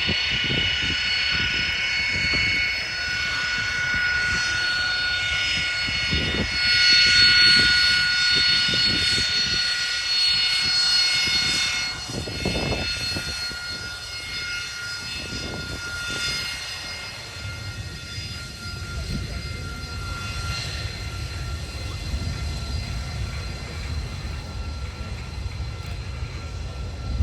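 McDonnell Douglas EAV-8B Harrier II's Rolls-Royce Pegasus vectored-thrust turbofan in flight: a loud jet whine with several steady high tones over a rumble. It is loudest about seven to twelve seconds in, then eases to a lower rumble with a fainter whine.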